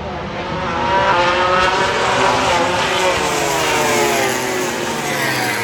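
MotoGP racing motorcycles passing at speed, several engine notes climbing and then dropping in pitch as they go by; the sound swells about a second in and eases near the end.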